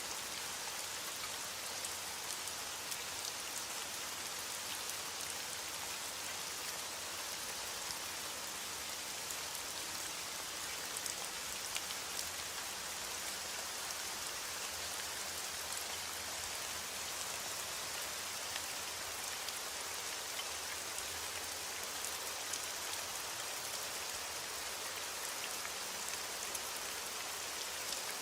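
Steady rain falling: an even hiss with many small drop ticks pattering on surfaces.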